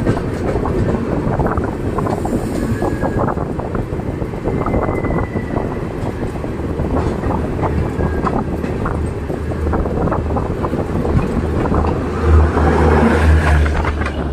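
Shatabdi Express coaches passing close by on the adjacent track, wheels clattering over the rail joints. A low hum builds in the second half and is loudest near the end.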